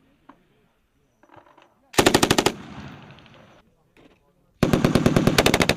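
Belt-fed machine gun firing two bursts of rapid shots, a short one about two seconds in and a longer one near the end, each followed by a trailing echo.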